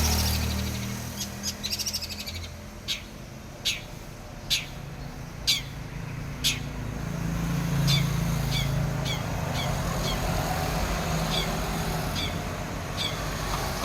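Five-month-old long-tailed shrike (cendet) calling: a quick rattling trill about a second and a half in, then short, sharp, falling chirps about once a second. A low rumble runs underneath and swells around the middle.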